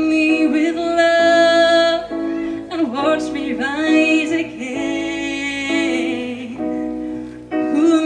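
A worship song with a singing voice holding long, wavering notes over steady instrumental chords that change about once a second.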